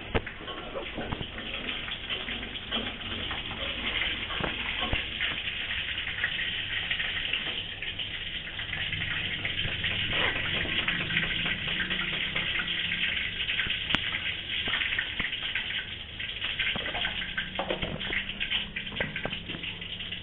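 Hot oil sizzling and crackling steadily as food fries in pans on a gas stove, with a few light clicks over it.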